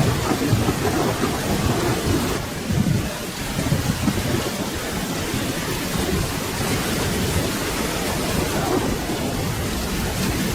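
Steady rain with thunder rumbling low beneath it, the rumble strongest in the first few seconds.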